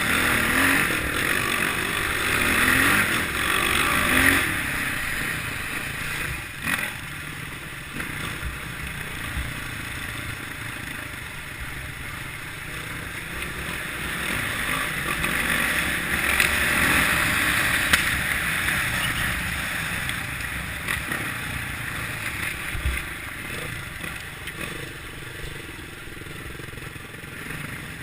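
Kawasaki KLX650R's single-cylinder four-stroke engine running as the bike is ridden off-road. The engine swells louder near the start and again about halfway through, with scattered knocks and rattles.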